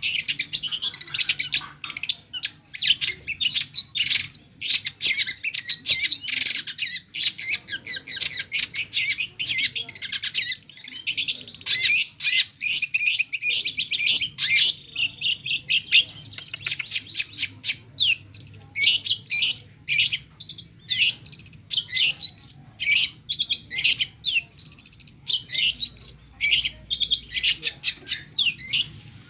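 A long-tailed shrike (cendet) singing a fast, near-unbroken stream of high chirps and trills, packed with imitations of other birds' songs. The stream thins briefly about halfway.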